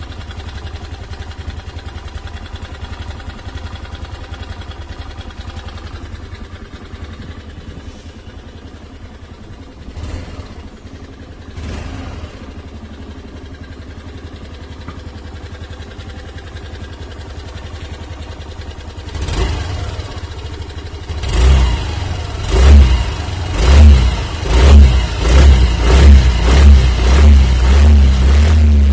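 Suzuki Burgman Street 125 scooter's 124cc air-cooled single-cylinder engine idling steadily, then revved. First a short rev about 19 seconds in, then a quick run of about nine throttle blips that come faster toward the end.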